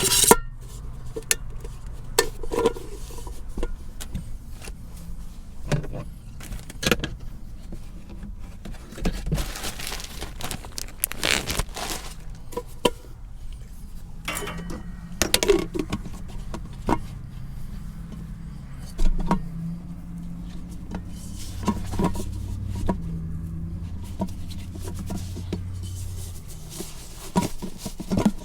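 Clinks, clicks and knocks of small camp cooking gear being handled, scattered irregularly. Under them runs a steady low rumble of strong wind buffeting the truck.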